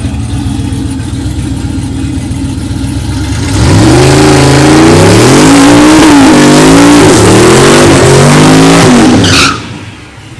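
Drag-racing street truck's engine idling, then revving at full throttle for about six seconds, its pitch climbing and dropping several times before the sound cuts off abruptly.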